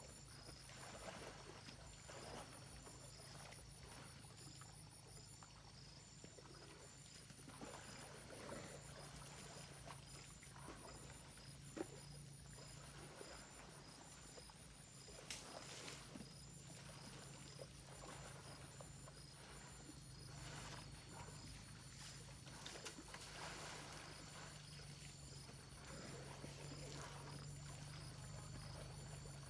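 Faint outdoor ambience: insects chirring in steady, finely pulsed high tones, with scattered soft rustles and knocks and one sharp click about twelve seconds in.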